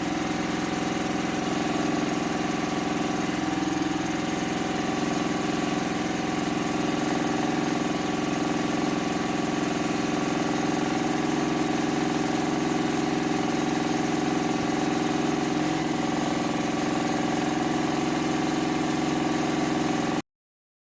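A small motor running steadily at an even speed, with a constant hum. It cuts off abruptly about 20 seconds in.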